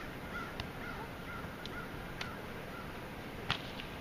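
Repeated short bird calls over a steady background, with a few sharp clicks in between; the loudest click comes near the end.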